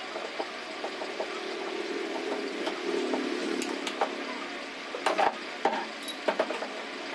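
Table fan motor running with a steady hum, followed near the end by several sharp clicks and knocks.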